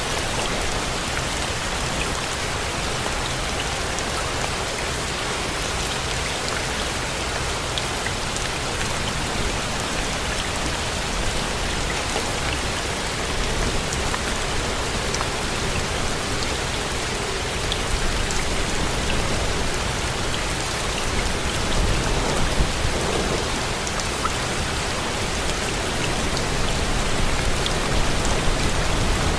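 Steady rain falling in a dense, even hiss, with scattered single drops ticking through it. A low rumble swells about two-thirds of the way in and again near the end.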